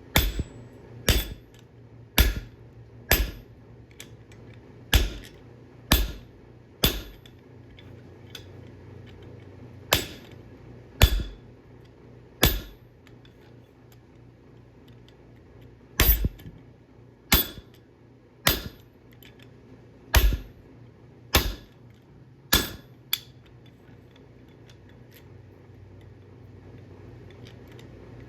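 Hand hammer striking steel on an anvil: sharp ringing blows about one a second, in runs of three to seven with pauses of a few seconds between, over a steady low hum.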